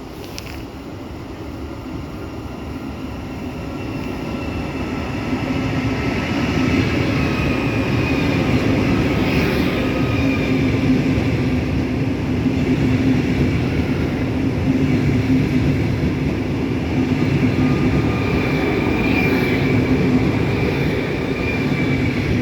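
Train running through the station without stopping, growing louder over the first six seconds or so as it approaches, then a steady rumble with a faint high-pitched whine on top.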